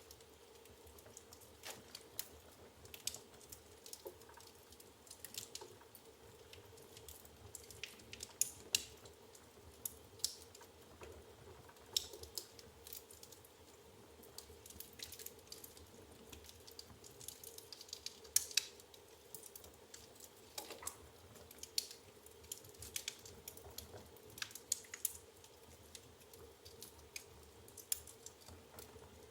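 Wood fire burning in a fireplace, crackling with irregular sharp pops and snaps over a faint steady background.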